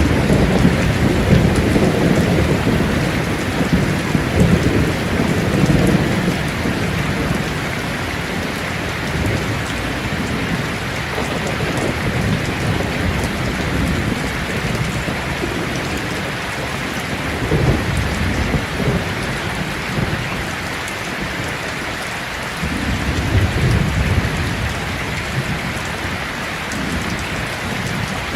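Heavy rain drumming steadily on a tin roof, with rolling thunder that rumbles loudest over the first several seconds, swells again briefly around the middle, and returns about two-thirds of the way through.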